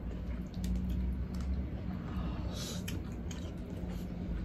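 Close-up eating sounds: chewing, wet mouth clicks and small squishes as pork hock kare-kare and rice are eaten by hand, over a steady low hum.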